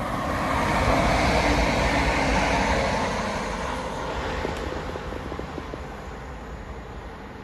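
Passenger train passing on the line, a rushing rumble of wheels on rail that swells over the first second or two and then slowly fades as it moves away.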